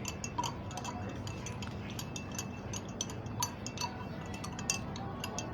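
A spoon clinking irregularly against a glass while stirring rose syrup into chilled milk.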